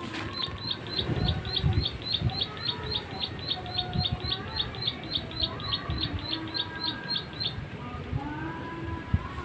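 A prinia (prenjak sawah) calling a long, even series of short, sharp high 'klik' notes, about three to four a second, that stops about two seconds before the end. Other birds call lower in the background, with a few low thumps.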